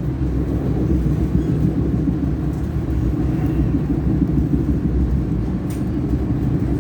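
Steady rumble of a passenger train in motion, heard from inside the carriage.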